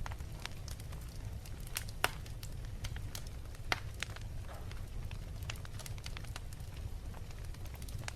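Fire crackling in a fireplace: irregular sharp pops and snaps over a steady low rumble, with louder pops about two seconds in and again near four seconds.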